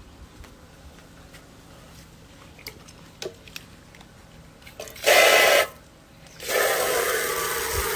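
Water rushing: a short loud gush about five seconds in, then after a brief pause a steady stream of running water.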